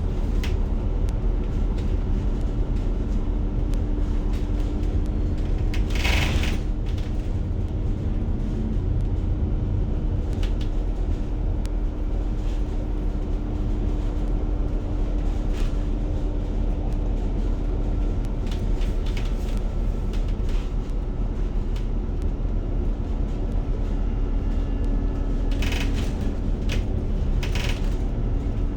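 Steady low rumble and hum of a bus in motion, heard from inside the cabin. Brief hisses come about six seconds in and twice near the end.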